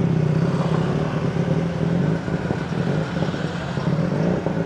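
Steady road traffic close by: vehicle engines running in a continuous low hum as they pass.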